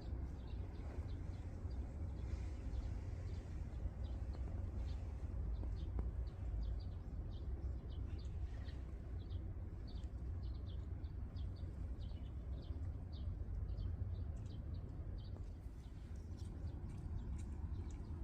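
Small birds chirping: many short, high chirps in quick succession over a steady low rumble.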